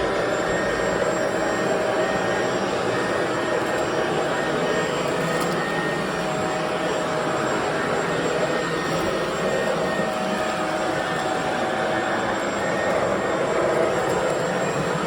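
Bissell Pet Slim 21V cordless stick vacuum running steadily: a high, steady motor whine over the rush of suction air.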